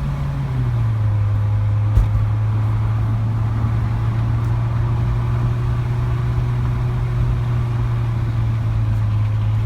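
Volkswagen Golf R's turbocharged 2.0-litre four-cylinder cruising, heard from inside the car: a steady low exhaust drone, loud through a downpipe with the muffler and resonator deleted and the exhaust valves open. The drone steps down in pitch once about half a second in, then holds steady; a single short click comes about two seconds in.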